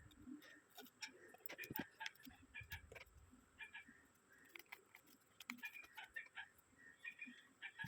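Faint, irregular light clicks and taps of small phone parts and tools being handled while double-sided tape is applied to a strip inside the phone.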